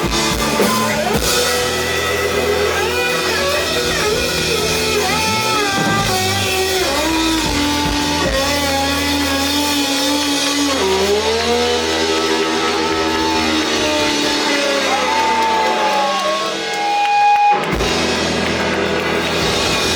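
Live rock band playing an instrumental passage: an electric guitar holds sustained lead notes with bends and slides over a drum kit and bass.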